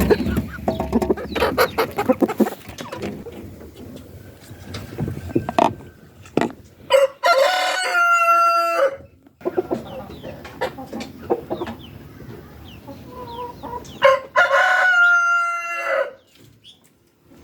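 A rooster crowing twice, about seven seconds and fourteen seconds in, each crow lasting about two seconds. Chickens cluck in between.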